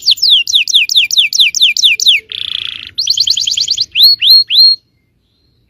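Yellow domestic canary singing. A fast trill of falling notes runs into a short buzzy passage, then a quick rising trill and three separate upswept whistles, and the song stops about five seconds in.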